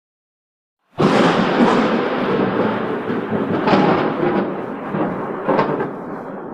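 Thunder rumbling, cutting in suddenly about a second in, with two sharper cracks along the way and slowly fading toward the end.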